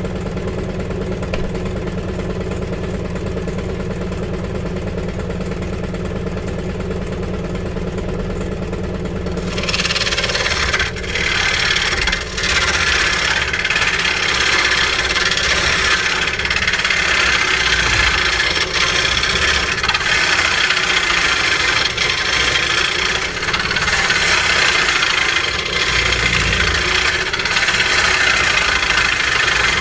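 Two-stroke chainsaw idling steadily, then about ten seconds in it revs and cuts into willow wood. The cutting runs on with brief dips.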